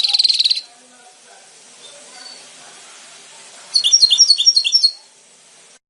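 European goldfinch singing: a phrase that ends in a fast buzzy trill about half a second in, then, after a pause of about three seconds, another phrase of quick repeated twittering notes lasting about a second.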